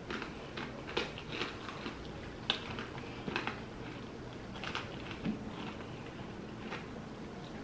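Biting and chewing crinkle-cut french fries close to the microphone, with scattered soft crunches and mouth sounds about once a second.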